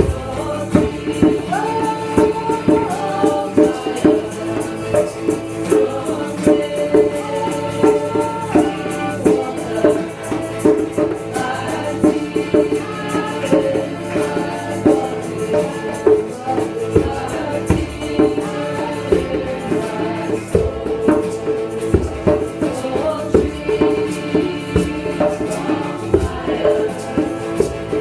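Kirtan: voices singing a devotional chant together over a steady held drone, with a regular beat of struck percussion.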